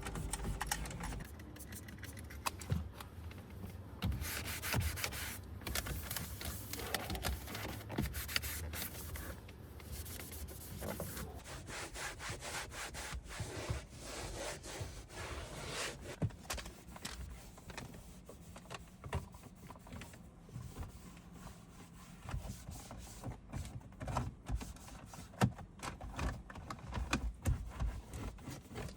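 Repeated hand rubbing and scrubbing strokes against a surface, with scattered light clicks and knocks.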